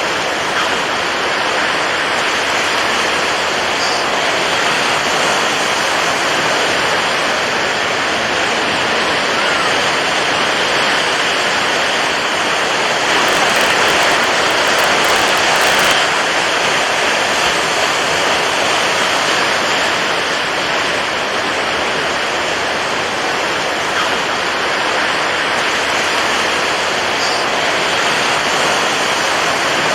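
Steady rushing of water waves, swelling a little louder and brighter about halfway through.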